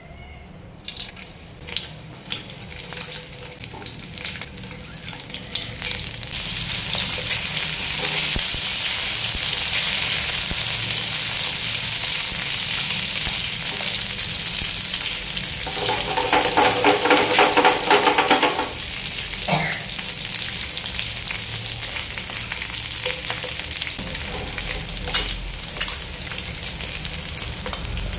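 Boiled eggs frying in hot oil in a non-stick pan, sizzling steadily while they are stirred and turned with a spatula. The sizzle builds over the first few seconds, with a few clicks, and there is a louder rattling stretch about two-thirds of the way through.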